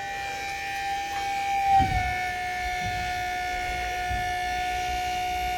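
Electric hydraulic power pack running with a steady high whine, driving the ramps to fold up. About two seconds in, its pitch dips slightly and there is a low thump.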